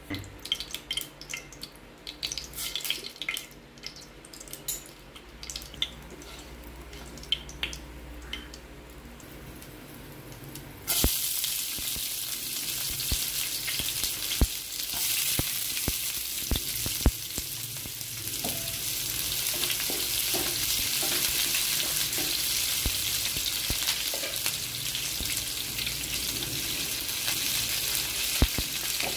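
Hot cooking oil in a frying pan crackling with scattered pops, then about eleven seconds in a sudden loud, steady sizzle as chopped onions go into the oil, with a few sharp clicks over the sizzle.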